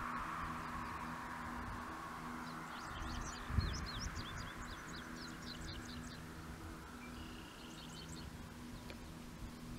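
Small birds chirping in quick high runs through the middle and later part, over a low steady hum. An insect drone fades out over the first few seconds, and a single low thump comes about three and a half seconds in.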